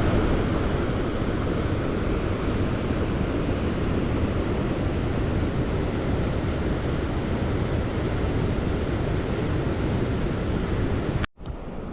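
Fast-flowing river water rushing steadily, a dense, even roar with much low rumble. It cuts off suddenly near the end.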